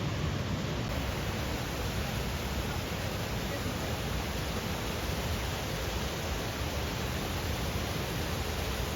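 Steady rush of water from a waterfall and river rapids, an even, unbroken noise.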